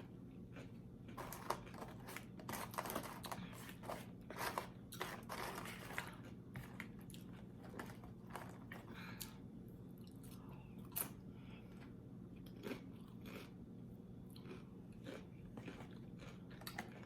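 A person chewing crunchy tortilla chips, loaded nachos, close to the microphone: a dense run of crisp crunches in the first half, then slower, sparser chewing.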